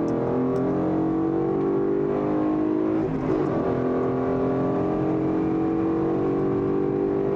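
2011 Mustang GT's 5.0 V8 exhaust, mufflers cut out and replaced with an X-pipe, running under way. Its note breaks briefly about three seconds in, then climbs steadily in pitch as the car accelerates.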